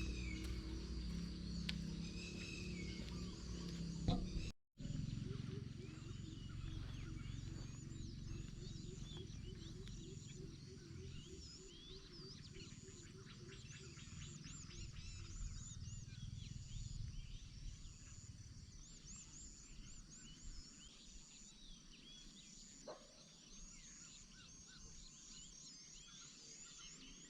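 Wild forest animal calls: many short high chirps and whistles throughout, and a rapid series of low repeated calls for several seconds after about five seconds in. Under them is a low rumble that fades away near the end.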